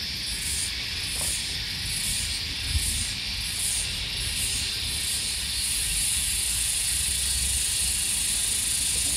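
Cicadas chorusing loudly: a high, hissing buzz that pulses about twice a second, then merges into a steady drone about six seconds in.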